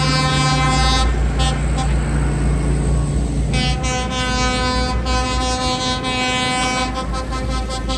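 A tractor's horn tooting over the low rumble of tractor engines: a blast that ends about a second in, two short toots, a long blast of about three seconds, then a quick string of short toots near the end.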